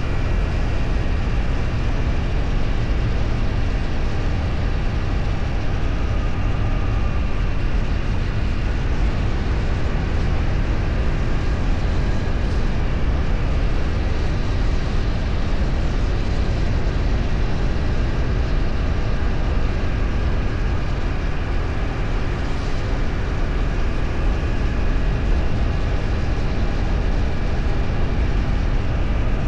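Steady wind rush and road noise of a vehicle travelling at speed, with a heavy low rumble that holds constant throughout.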